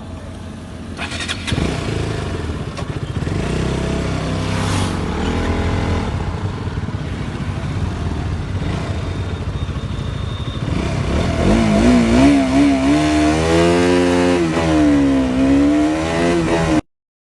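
Single-cylinder motorcycle engines of a KTM Duke 200 and a TVS Apache 160 running in an acceleration run, the engine note growing louder. From about twelve seconds in the revs climb and drop several times, as through gear changes, before the sound cuts off abruptly near the end.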